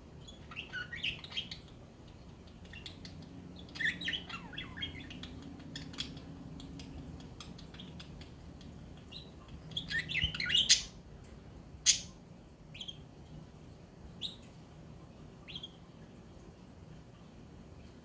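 Budgerigars chirping in short, irregular bursts and single chirps, with a few sharp clicks; the two loudest clicks come about eleven and twelve seconds in.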